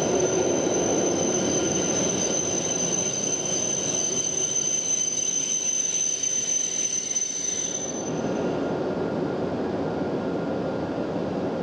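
Shinkansen train moving along the platform: a steady rumble of wheels and running gear with a high whine over it, which stops about eight seconds in while the rumble carries on.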